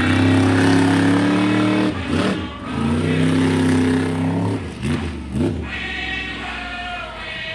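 Monster truck engine revving, held at high revs for about two seconds, easing off, held high again, then a few short stabs of throttle near the end.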